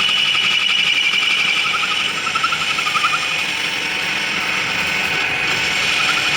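Workshop machinery running steadily: a high whine over a fast, even mechanical rattle.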